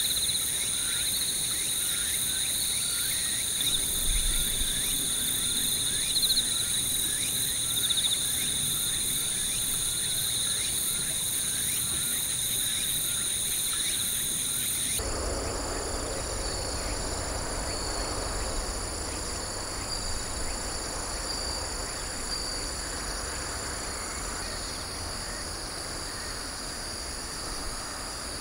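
Chorus of autumn crickets and other singing insects, steady high trills with a fast pulsing at the very top. About halfway through the background changes abruptly, adding a low rumble and a hiss under the insect trills.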